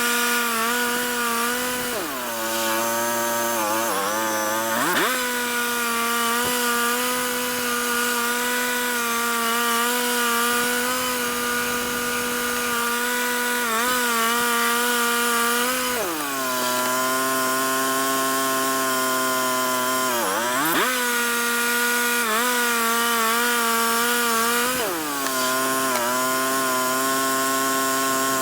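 Chainsaw running at high revs while cutting black walnut; its pitch sags and recovers about five times as the chain bogs under load.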